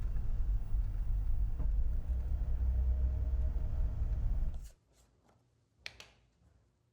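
Steady low rumble with a faint hum, cutting off abruptly about two-thirds of the way in, followed by a quiet room with a few soft taps.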